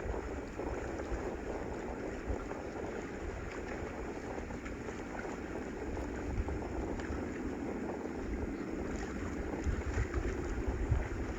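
Wind buffeting the microphone outdoors, low gusty rumbles over a steady background hiss, with stronger gusts near the end.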